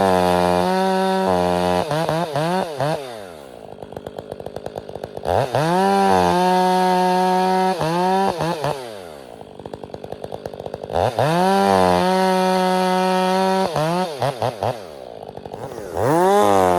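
Stihl 500i chainsaw bucking firewood. It revs up to full throttle and holds there for a few seconds per cut, then drops back to idle between cuts. This happens three times, with a fourth rev-up starting near the end.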